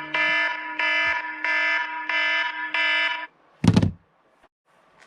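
A loud, buzzy alarm-like tone sounding in six even pulses, a little over one a second, then a single short, heavy thump.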